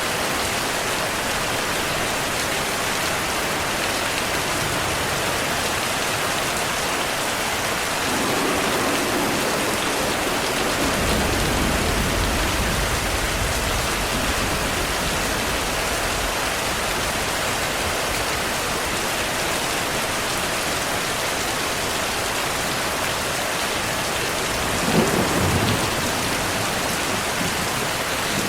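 Steady rain with distant thunder. A long low rumble of thunder builds about a third of the way in, and a sharper thunderclap comes near the end.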